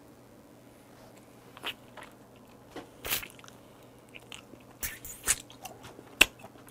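A person chewing raw shrimp sashimi close to the microphone, with wet mouth sounds and a few scattered sharp clicks and smacks.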